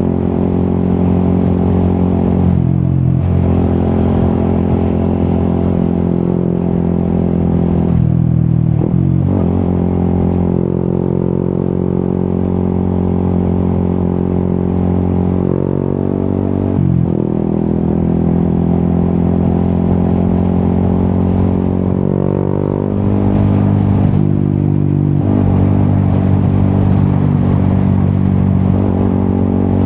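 Yamaha XSR 155's single-cylinder engine running through an Akrapovic exhaust while riding. It holds a steady note that dips briefly about four times, as with gear changes or easing off the throttle.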